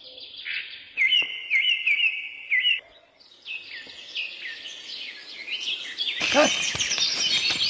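Songbirds chirping: a run of quick repeated chirps, then scattered calls, with a denser, louder chorus of birdsong from about six seconds in.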